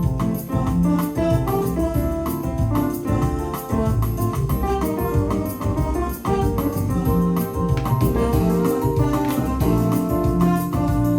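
Korg Pa1000 arranger keyboard playing one of its factory styles: a keyboard voice playing chords and melody over a bass line and a steady drum beat.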